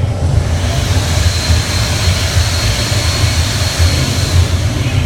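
Steady loud rushing with a heavy low rumble on a swinging pirate ship ride, like wind buffeting the microphone, with a faint thin whistle.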